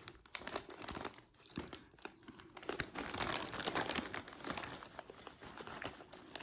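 Crinkling and rustling of a foil-lined chip bag being handled and reached into, an irregular crackle that is busiest in the middle stretch.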